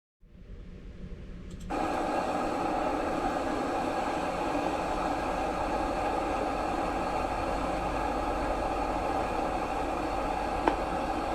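Steady rushing of a mountain stream's flowing water, fading in and then holding even, with a couple of faint clicks near the end.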